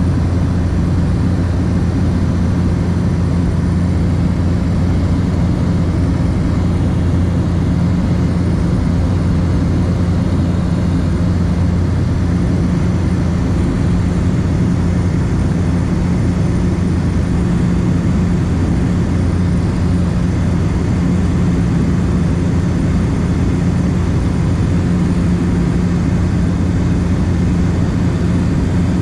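Steady drone of a small propeller aircraft's engine, heard from inside the cabin, with a deep, even hum that holds unchanged throughout.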